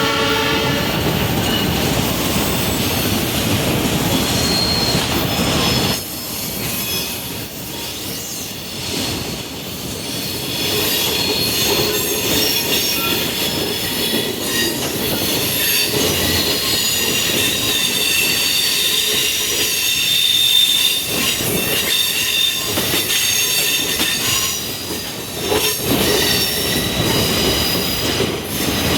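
Passenger train rolling on steel rails, its wheels squealing against the rail in thin high tones that come and go. A locomotive horn blast dies away about a second in.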